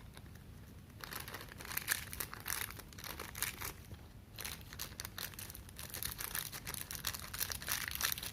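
Plastic packaging crinkling and crackling in the hands as a small pack of spare earphone ear tips is pulled open, a fast run of small crackles and rustles that starts about a second in.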